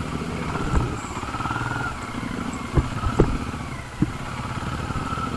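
Benelli Imperial 400's single-cylinder engine running steadily as the motorcycle is ridden, with four sharp knocks over the first four seconds.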